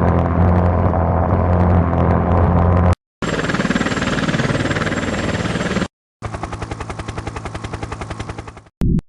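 Military jet aircraft noise in three abruptly cut segments. First comes a steady low engine drone, then a broad rushing jet noise, then about two and a half seconds of fast, even pulsing at roughly ten beats a second.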